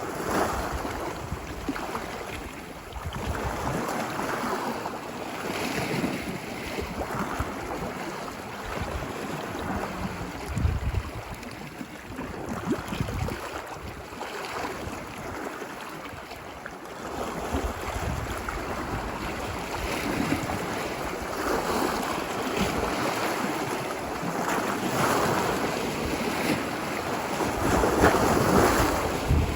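Ocean waves washing onto a beach, the surf swelling and easing every few seconds, with the loudest wash near the end. Wind buffets the microphone with a low rumble.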